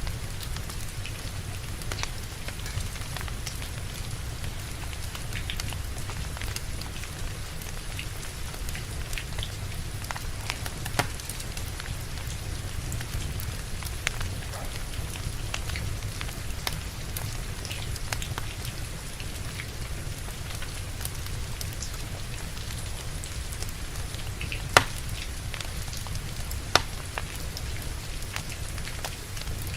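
Steady rain over a low rumble, with a wood fire crackling in scattered small clicks and two louder pops near the end.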